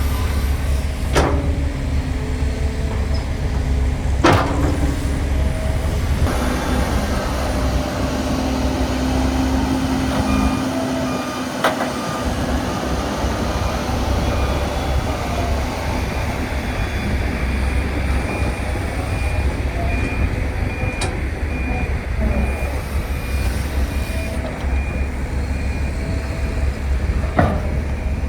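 Heavy diesel construction machinery running with a steady low rumble, with a few sharp metallic knocks. Through the middle a reversing alarm beeps in an even rhythm.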